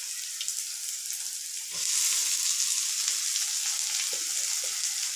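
Onions and tempering sizzling in hot oil in a kadai; about two seconds in the sizzle gets louder as boiled green gram (mung beans) is tipped into the pan, with a few light clicks of a spoon.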